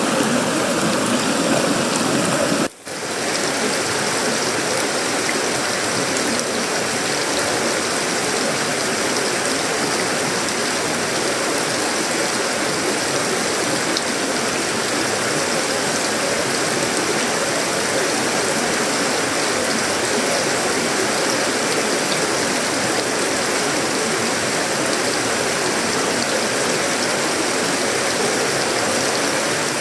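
Heavy tropical rain falling steadily on sheet-metal roofing, wood and leaves, a dense even hiss. Near three seconds in, the level drops out for a moment.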